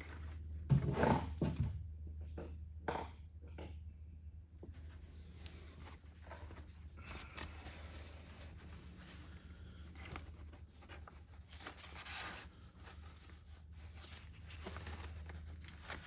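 Hands and a tool working the oil filter loose on a Piper Cherokee's engine: a few sharp knocks and scrapes in the first few seconds, then quieter handling noises over a steady low hum.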